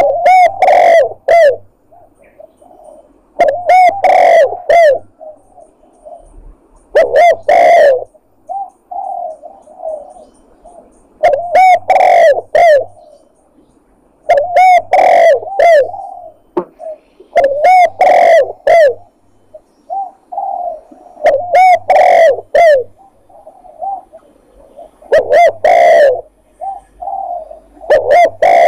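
Spotted dove (tekukur) cooing: a loud phrase of several arched coos repeats about every three and a half seconds, with softer coos in the gaps. It is a recorded lure call of the kind played to draw doves in for hunting.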